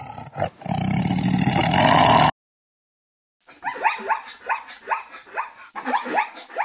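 A lion roaring, growing louder and cut off abruptly a little over two seconds in. After a second of silence, zebras give their barking call, a rapid run of short, falling yelps, two or three a second.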